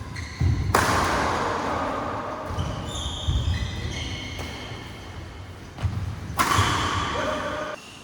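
Sounds of badminton play in a large echoing hall: low thuds from footwork on the court, with high squeaking tones and a noisy spell that comes twice.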